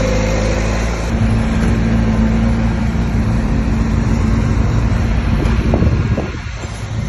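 A bulldozer's diesel engine working steadily. Its note shifts about a second in and eases off near the end.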